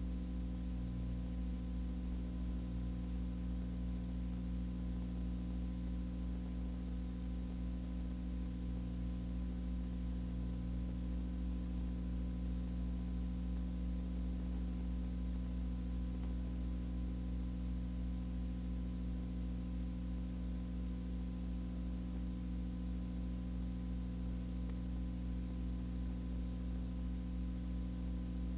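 Steady low electrical hum under a constant hiss, with no other sound.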